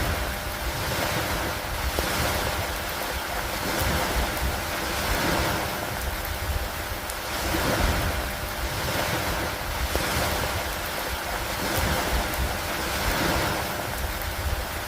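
Stormy lakeside rain and wind: a dense wash of noise that swells and eases about every two seconds, over a fluttering low rumble.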